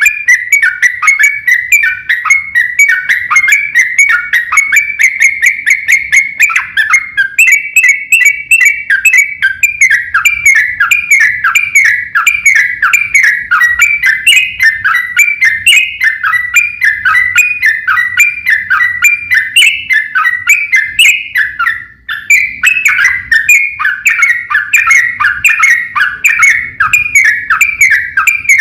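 Yellow-vented bulbul (trucuk) song in the rapid 'ropel' style: a loud, unbroken stream of short whistled notes, several a second, with a brief break about twenty-two seconds in.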